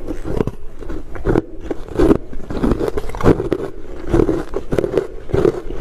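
Ice being bitten and chewed: a run of sharp, irregular crunches, several a second.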